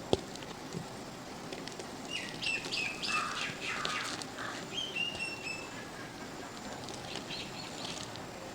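Birds chirping in short repeated calls, in a run from about two seconds in and again near the end, over a faint steady hiss. A single sharp crack of dry mud sounds right at the start.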